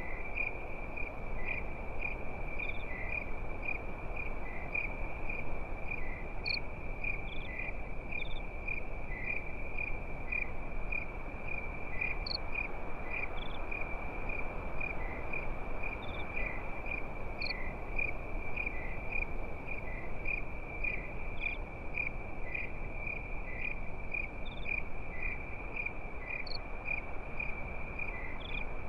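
Crickets chirping at night in a steady, even rhythm, with a few other insect chirps scattered above, over a low, constant background hiss.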